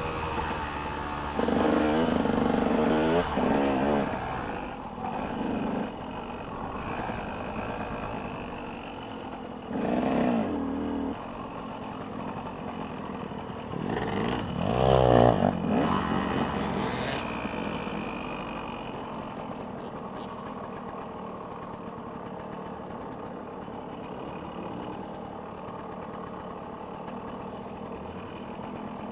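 Motocross dirt bikes racing, engines revving and changing pitch as bikes pass close by. The loudest passes come about a second and a half in, around ten seconds, and again around fifteen seconds, with other bikes droning farther off in between.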